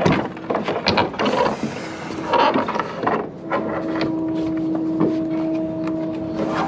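Irregular clicks, knocks and ratcheting creaks from wooden deck boards and framing being worked loose with hand tools during demolition, over a steady low hum.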